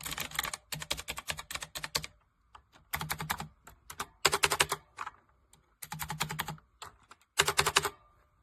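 Typewriter-style mechanical keyboard being typed on fast, in about five quick runs of sharp key clicks with short pauses between them.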